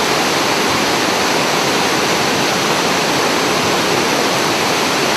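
Waterfall: falling water rushing in a loud, steady roar with no breaks.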